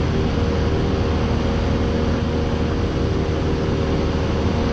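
Cessna 172's four-cylinder piston engine and propeller droning steadily in the cabin during the climb, a constant low hum with a few steady tones.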